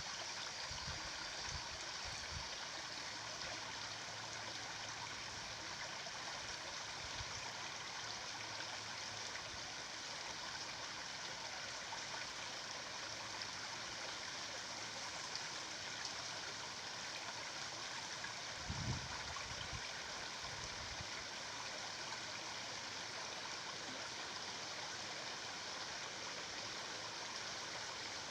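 Stream water rushing and flowing steadily, with a few soft low thumps near the start and about two-thirds of the way through.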